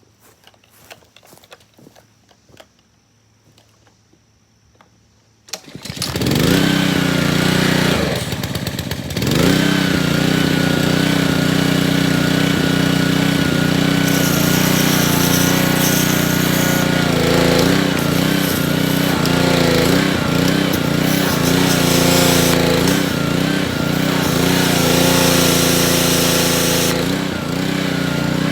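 Petrol pressure washer's small engine starting after a few handling clicks: it catches suddenly about five seconds in, dips briefly and picks up again, then runs steadily with its pitch wavering now and then.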